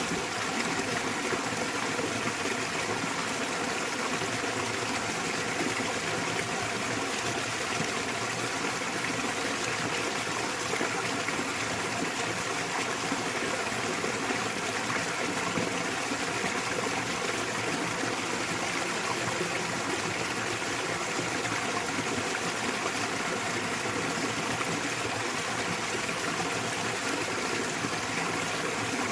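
Small waterfall in a mountain stream, water falling and running in a steady, even rush.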